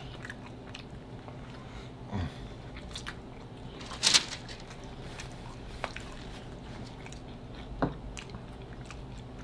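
Close-miked chewing of pizza, with wet mouth clicks and smacks, and one louder click about four seconds in.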